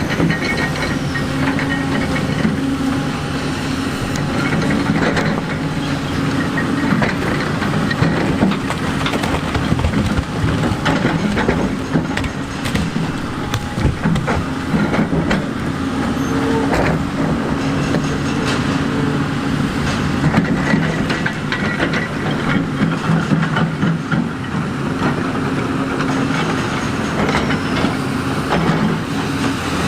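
Large excavator's diesel engine working steadily, its pitch rising and falling with the load, with scattered clanks and knocks of metal and rock throughout.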